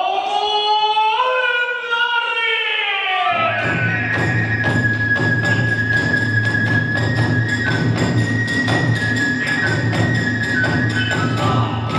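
Hiroshima kagura hayashi music: a long drawn-out sung line slides up and then down, and about three seconds in the bamboo flute, drums and small hand cymbals start up together, the flute holding long high notes over a steady beat.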